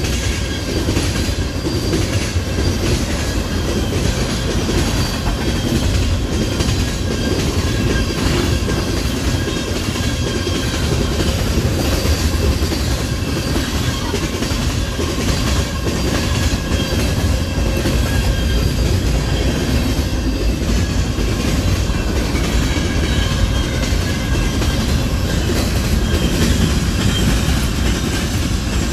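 A long freight train's cars rolling past: a steady rumble of wheels on rail with a rapid clatter and a faint high wheel squeal.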